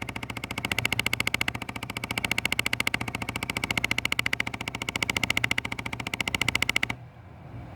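Rapid, even clicking rattle from the dashboard air ducts of a Jeep Grand Cherokee with the AC running. It stops abruptly about seven seconds in. The owners suspect a vent door actuator, though pulling one out did not cure it.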